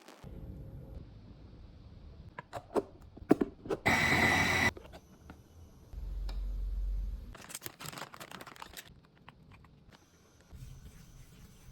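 Food-preparation handling sounds: scattered clicks and knocks, a short loud burst of hissing noise about four seconds in, a low rumble, then rustling.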